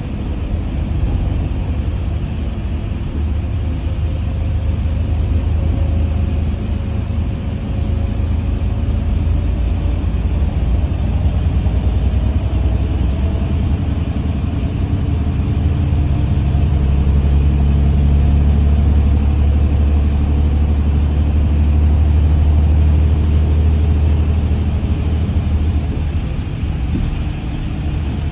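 Steady low rumble of a road vehicle driving, heard from inside the cabin, with an even hiss over it and a faint engine whine that slowly rises in pitch. The rumble swells louder for several seconds past the middle, then eases near the end.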